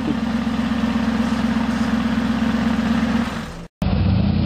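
A supercar engine running at steady revs, which fades after about three seconds. After a brief dropout, a different car's engine is heard running at a steady idle.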